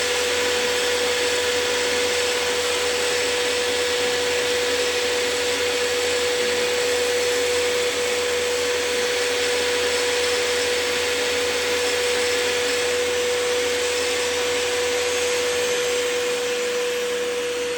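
An electric motor running steadily, with a strong hiss and a single held whine, easing off slightly near the end.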